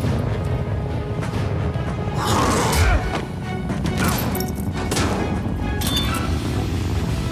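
Dramatic film score over a heavy low rumble, broken by a series of sharp crash and impact effects about once a second. The loudest hit comes about three seconds in.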